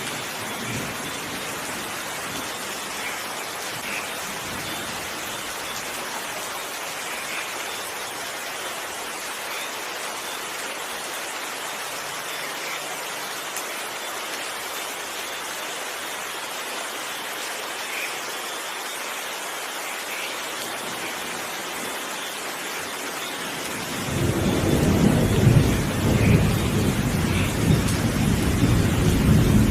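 Steady rain hissing, with a few single drops standing out. About 24 seconds in, a loud low thunder rumble swells and lasts about six seconds, the loudest sound.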